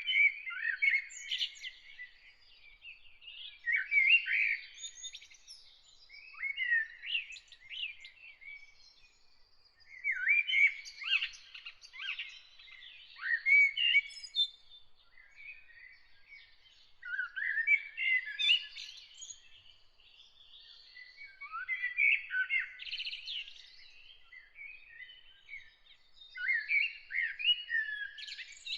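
A songbird singing short, varied warbled phrases, each about one to four seconds long, with pauses of a second or two between them.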